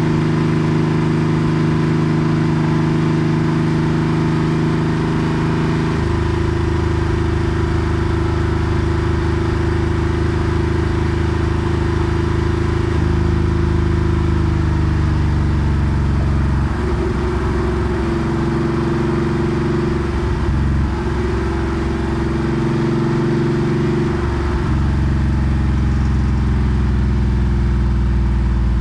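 Porsche 964 Carrera 2's air-cooled 3.6-litre flat-six running under way through an aftermarket centre straight muffler. The engine note is steady but steps down in pitch twice in the first half, rises and falls through the middle, then settles again near the end.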